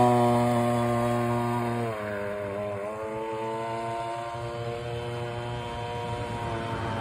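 Small clone gas engine on a vintage Hustler radio-control model running at high speed on its first run. About two seconds in it is throttled back, the pitch dropping to a steady lower speed that holds, edging up slightly near the end.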